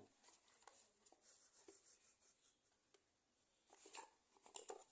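Near silence with faint rubbing and a few light clicks of toy truck parts being handled as the last wheel pair is fitted, the clicks a little louder near the end.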